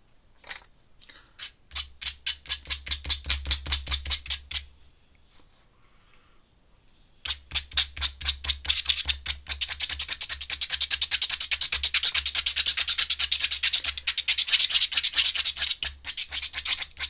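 Rapid scribbling strokes of an ink drawing tool on sketchbook paper, about six or seven scratchy strokes a second. They come in two runs: a short one about two seconds in, and a longer, denser one from about seven seconds in.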